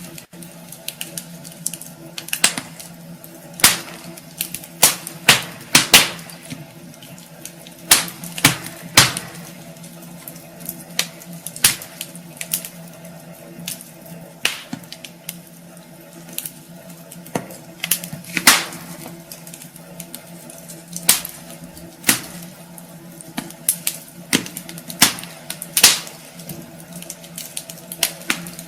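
Wood fire in a fireplace crackling, with irregular sharp pops and snaps over a steady low hiss.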